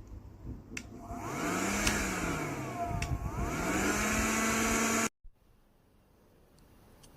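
ELUXGO EC19B cordless bed vacuum cleaner's motor running, its whine dipping and rising again twice. It cuts off suddenly about five seconds in, leaving a faint hiss.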